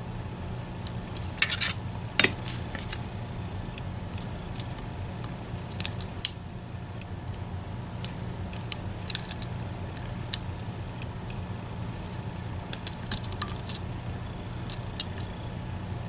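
Lock picks working inside an EVVA ICS high-security lock: scattered small metallic clicks and ticks as the pick scrapes and sets the pins and sliders, the loudest pair about a second and a half in. A steady low hum runs underneath.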